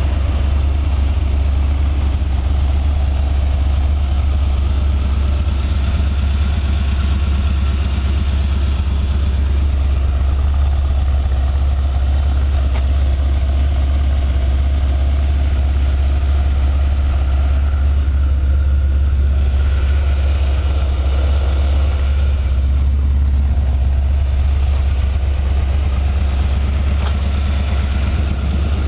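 Chevy 355 small-block V8, mid-mounted in a Porsche 914, idling steadily with a deep, even exhaust note.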